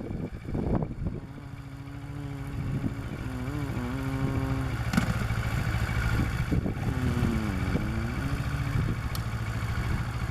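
Kawasaki Ninja 650R parallel-twin motorcycle engine running under throttle as the bike rides, its pitch wavering up and down with the gas and growing louder over the first few seconds.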